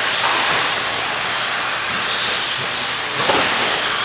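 Radio-controlled race trucks running on a dirt track: a steady hiss with the high whine of their motors rising and falling in pitch as they speed up and slow down.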